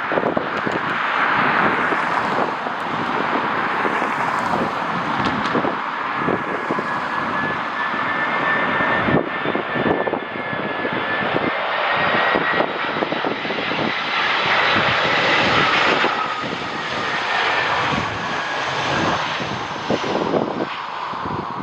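Airliner engines on a landing approach: a steady rushing noise with a high whine that rises slightly, then falls as the aircraft passes. Gusty wind buffets the microphone throughout.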